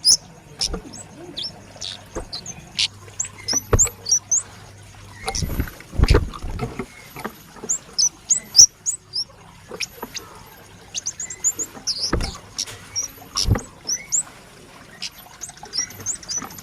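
Young kemade (flowerpecker) calling: many short, high, sharp chirps in quick runs, with pauses between them. Several dull thumps sound between the chirps.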